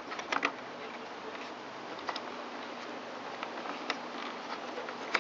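A few light clicks and taps from hands handling the blower's plastic engine shroud and coil kill wires, over a steady low room hiss.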